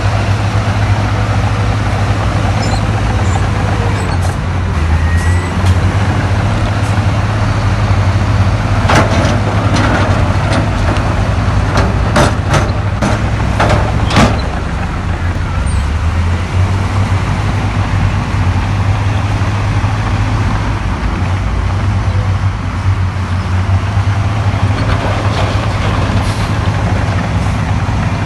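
Heavy diesel engine of earthmoving machinery running steadily under load, with a run of sharp clanks and knocks from about nine to fourteen seconds in.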